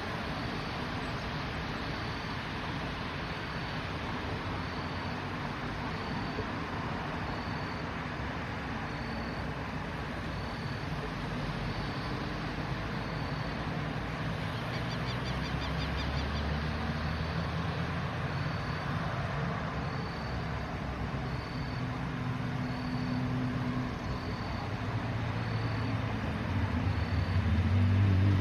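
Steady hiss with a faint high beep repeating about once a second; an engine's low hum comes in around the middle and grows louder near the end.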